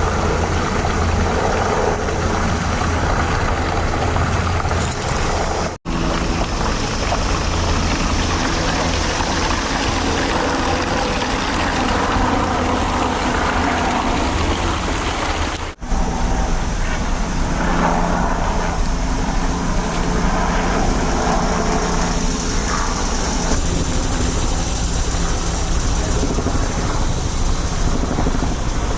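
Steady motor or engine noise with a low rumble, mixed with street noise. The sound drops out briefly twice.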